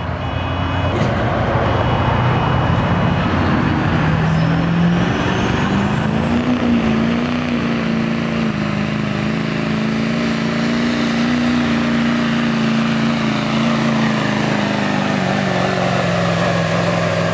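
Diesel pickup truck engine running hard at full throttle while pulling a sled. Its pitch climbs about six seconds in, holds steady, then eases off near the end.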